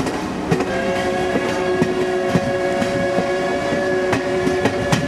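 A train horn sounding one long, steady chord of several tones, held for about four seconds. Under it the train's wheels click over the rail joints as it runs.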